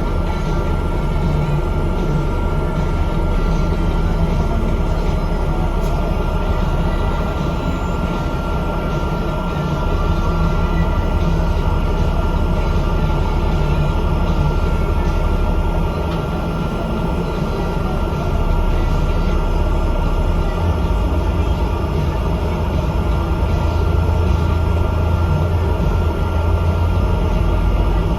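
Bus engine and drivetrain running as the bus drives, a steady low rumble with a thin high whine over it, easing and pulling harder by turns.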